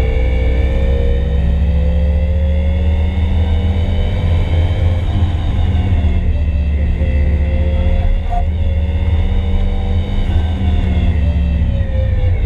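Turbocharged SR20DET inline-four of a Nissan 240SX under hard track driving, heard from inside the cabin, its note rising and falling several times as the revs change.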